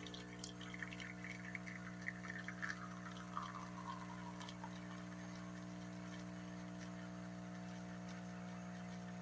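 Liquid trickling and splashing from the espresso machine into a cup for the first few seconds, with small drips, over a steady electrical hum that continues throughout.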